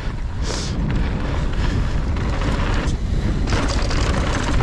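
Wind buffeting the action camera's microphone over the rumble and rattle of a mountain bike's tyres rolling fast down a dirt singletrack, with a short hiss about half a second in.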